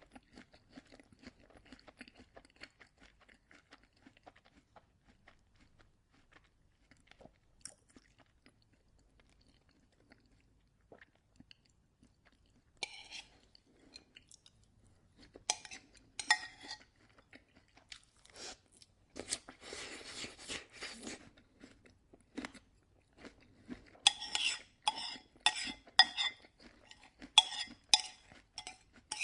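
Close-up sounds of a person eating oatmeal. Soft chewing at first, then a few sparse clicks. From about halfway, a spoon knocks and scrapes in a bowl, ending in a quick run of ringing clinks.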